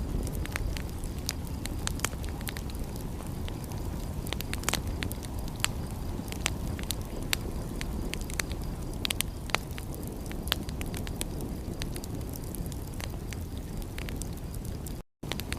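Wood fire crackling, with frequent sharp pops and snaps over a steady low rumble. The sound cuts out completely for a moment about fifteen seconds in.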